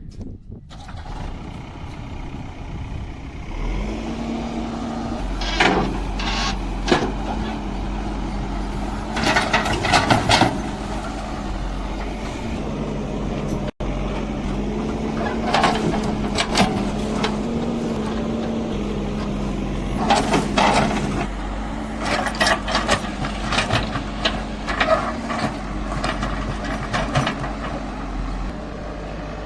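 Tractor diesel engine running steadily, growing louder a few seconds in, with scattered knocks and rattles over it.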